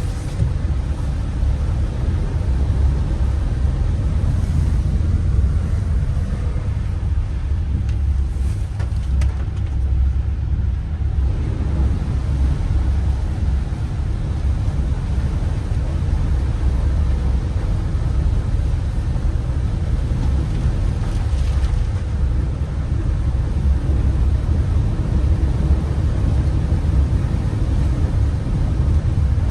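Vehicle driving, its engine and tyres making a steady low rumble.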